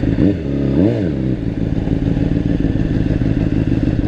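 Honda CBR600RR's inline-four engine idling steadily, with low wind rumble on the microphone. A short voiced sound, rising then falling in pitch, comes about half a second in.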